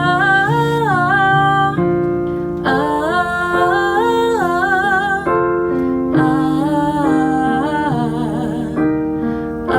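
A woman singing a song's melody on an open 'ah' vowel in place of the lyrics, over a piano accompaniment, with sustained and gliding notes. The 'ah' vowel is used as an exercise to keep the voice from sounding nasal.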